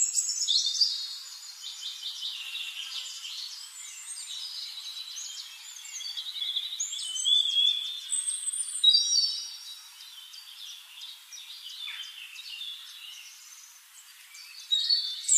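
Many birds singing and chirping at once: a busy chorus of short whistles, chirps and quick trills, louder near the start, about halfway through and again at the end.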